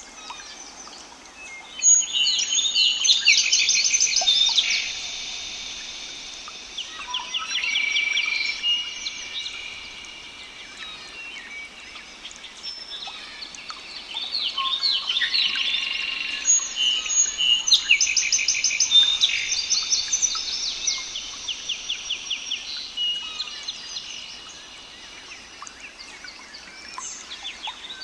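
Songbirds singing outdoors: several birds giving rapid trilled phrases and high whistled notes, in waves that swell and fade.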